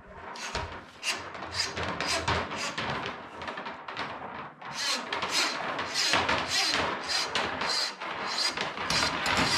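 Irregular knocks and scraping, rustling noises of objects being handled, in quick uneven succession.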